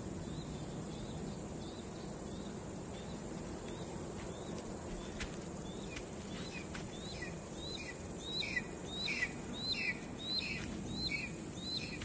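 A bird calling over and over in short two-part chirps, about one and a half a second, faint at first and louder in the second half, over a steady outdoor background hiss.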